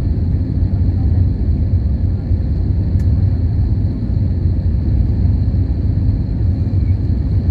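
Steady low rumble of a jet airliner's engines and airflow heard from inside the passenger cabin on approach to landing, with a faint steady high whine and a single click about three seconds in.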